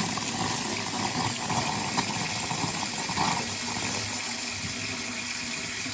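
Water and air spurting unevenly from an open hot water tap as the air is purged from a newly filled water heater tank.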